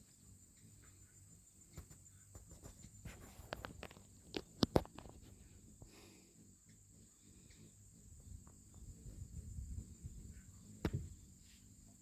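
Faint steady high chirring of insects, with a few sharp knocks and clicks: a cluster about four to five seconds in, which is the loudest, and another near the end.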